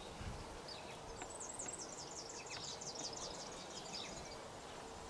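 A small bird's high, rapid trill of many quick repeated notes, lasting about two seconds and starting about a second in, with a few faint chirps around it over a quiet background.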